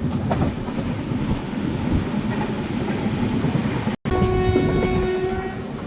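Moving passenger train running with a steady rumble of wheels on rail. About four seconds in, after a short break, a locomotive horn sounds one steady blast of about a second and a half.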